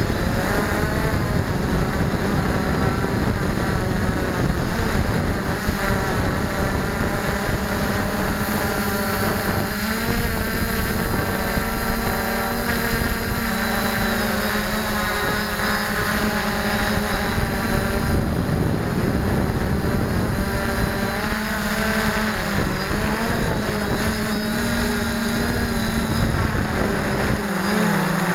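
Quadcopter drone's motors and propellers humming steadily, the pitch dipping and rising a few times as it manoeuvres.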